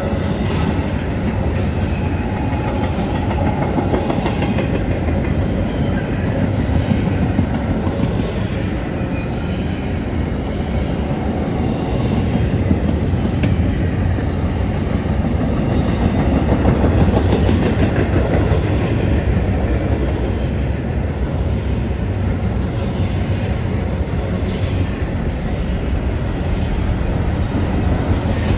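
A train passing close by: a steady, loud rumble of wheels running over the rails, with brief high wheel squeals near the end.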